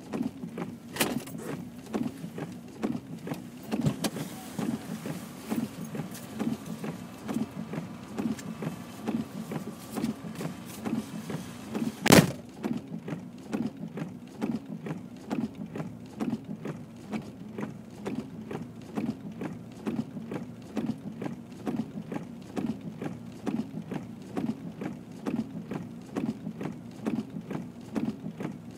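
A repeating mechanical sound keeping an even rhythm throughout, with one sharp, loud click about twelve seconds in.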